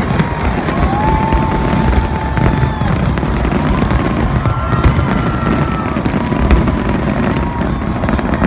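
Big fireworks display going off without pause: a continuous low rumble of booms with dense crackling. A few drawn-out whistling tones rise over it now and then.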